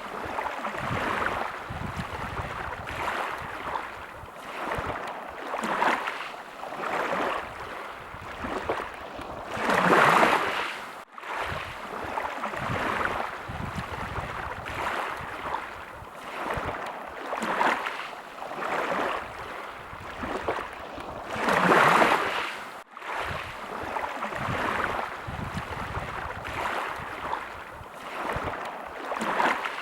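Small sea waves lapping at the shore, the water swelling and falling every second or two, with a larger wave breaking about ten seconds in and again near twenty-two seconds.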